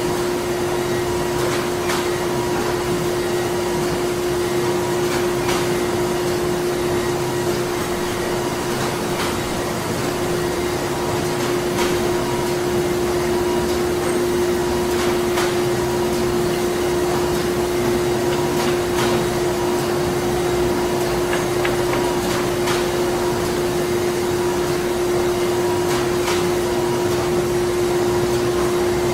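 Printing-plant machinery running steadily: a constant hum with one strong pitch over a dense mechanical rush, with faint irregular clicks or knocks every second or two.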